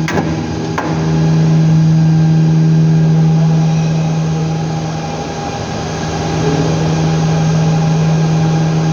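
A steady machine hum with one strong low tone, easing slightly about five seconds in, with a couple of light clicks near the start.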